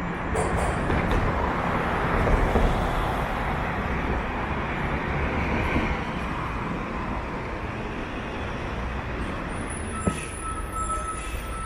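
Street traffic: a heavy road vehicle passes close by, its noise swelling about two seconds in and easing off over the next few seconds. A thin, steady high whine comes in near the end.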